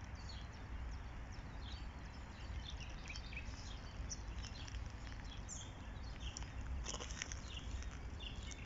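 Small birds chirping in short, scattered high calls over a low steady outdoor rumble.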